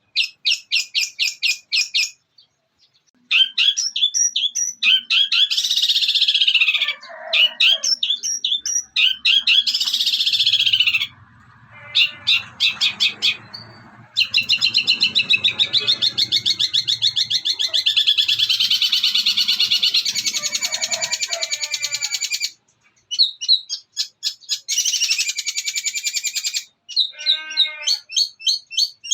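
Long-tailed shrike (cendet) singing a loud, fast chattering song of rapidly repeated high notes, including mimicked sparrow fighting calls, in several runs that start and stop abruptly with short breaks between them.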